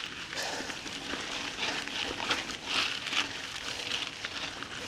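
Mountain bike riding over a dirt trail: tyres crunching on loose ground, with a steady run of small clicks and rattles.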